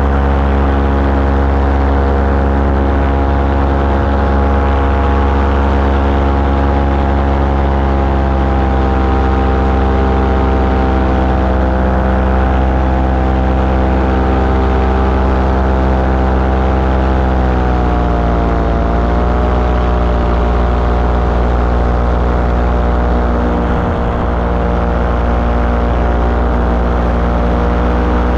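Engine of a small powered aircraft running steadily in flight. About two-thirds of the way through, its pitch drops briefly as the throttle is eased, then comes back up.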